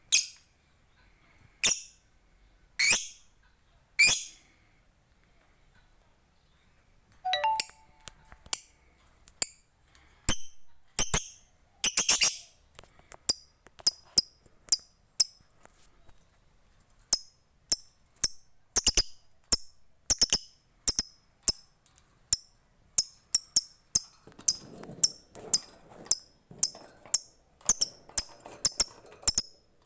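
Lovebird calling in shrill, high-pitched notes: four single calls about a second apart, then after a short pause a long run of quick repeated calls that speeds up. This is the long 'ngekek' chatter that keepers prize in a song lovebird.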